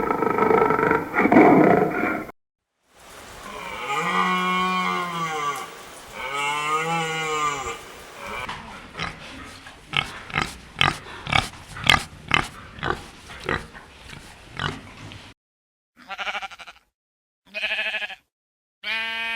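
A series of different animal calls in turn: the tail of a big-cat roar, two long rising-and-falling calls, a quick run of short grunts at about two or three a second, then three short calls near the end.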